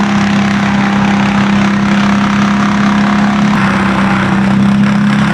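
Engine of land-clearing machinery running steadily at a constant pitch.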